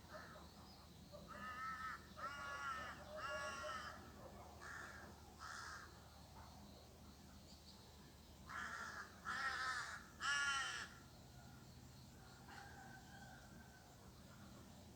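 A crow cawing repeatedly: a run of three caws near the start, two fainter ones, then three louder caws around ten seconds in.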